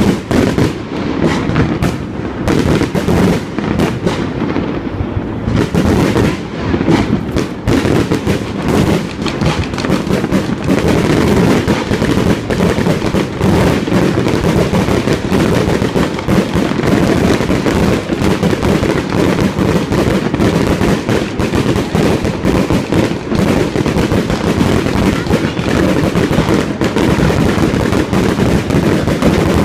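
Large fireworks display: many shells bursting in quick, near-continuous succession, with bangs overlapping one another.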